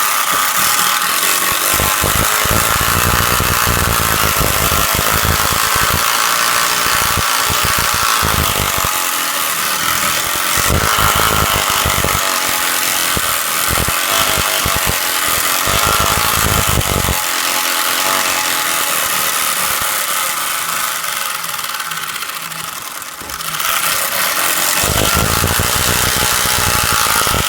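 Home-made 'fake' motorbike, a bike with playing cards flapping against its spokes, ridden along and making a loud continuous buzzing rattle meant to sound like a motorcycle. It dips briefly a few seconds before the end, then picks back up.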